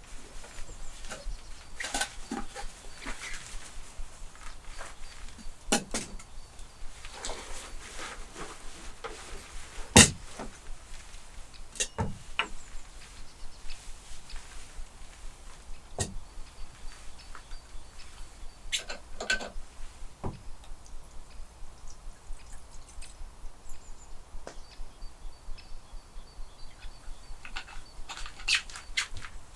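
Wood campfire crackling, with irregular sharp pops and snaps; the loudest pop comes about ten seconds in.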